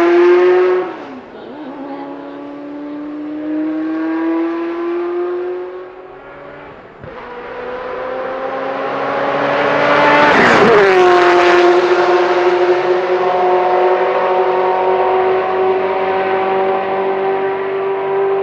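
Ferrari F40 LM's 2.9-litre twin-turbo V8 under hard acceleration, its note climbing through the gears with shifts about a second in and again near seven seconds. The car passes loudest at about ten seconds with a sharp drop in pitch, then holds a steady note as it pulls away.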